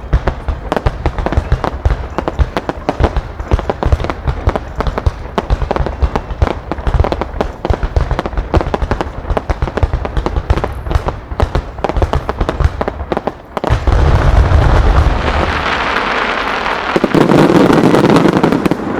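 A rapid barrage of firework bursts, a starmine with dense bangs and crackling, that merges about 14 seconds in into a continuous loud rumble of overlapping explosions.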